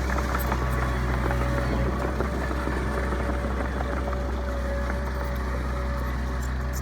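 Heavy diesel engine of a bulldozer or dump truck running steadily at constant revs, with a steady higher whine over the low engine note.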